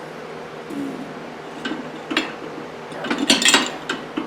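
Small steel parts of a mower deck pulley and bearing clinking and knocking against each other and the tools on a workbench: a few separate clinks, then a quick cluster of clanks about three seconds in. A faint steady hum runs underneath.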